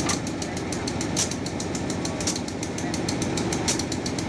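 Train running with a fast, steady clatter of about ten clicks a second over a constant rumble.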